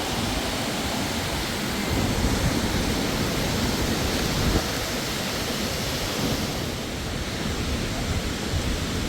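Steady rushing of a waterfall, an even roar of falling water, with stronger low rumbling for a couple of seconds in the middle.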